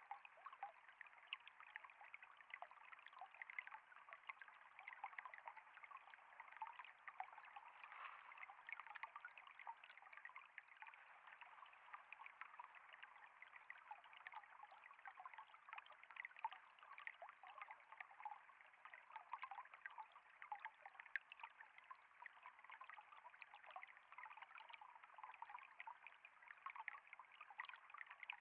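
Flowing water trickling steadily and faintly, dense with small splashes and droplets.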